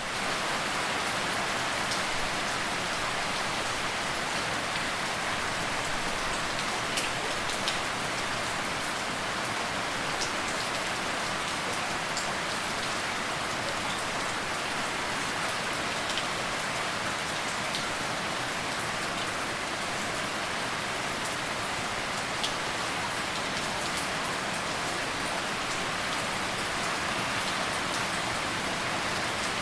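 Steady rain falling, an even hiss with scattered individual drop taps, used as soothing white noise.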